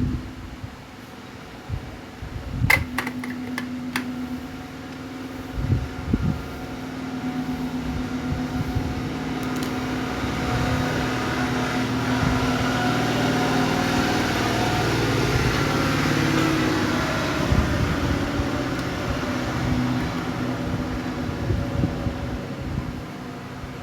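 A small electric motor whirring steadily with a constant hum, with a few sharp clicks about three seconds in; the whirr swells louder through the middle and then eases off.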